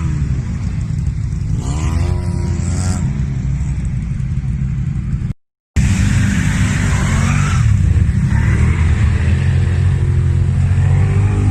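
Off-road vehicle engine running loudly with a deep rumble. The sound cuts out for a moment about five seconds in, then resumes.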